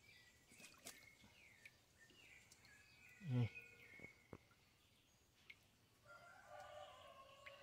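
Faint bird calls and chirps in the background, with a fuller, louder call starting about six seconds in. A short low sound falls in pitch about three seconds in. Otherwise near silence.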